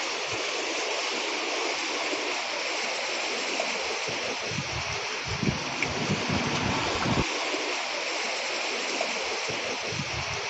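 Rough sea surf, a continuous rushing wash of waves driven by a strong northeast wind, with gusts of wind buffeting the microphone around the middle and again near the end.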